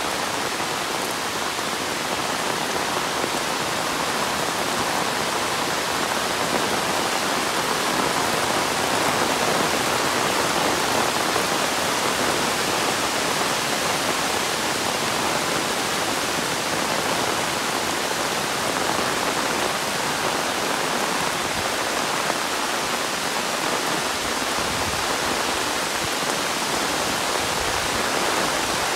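Steady heavy monsoon rain pouring down, an even hiss with no single drops standing out.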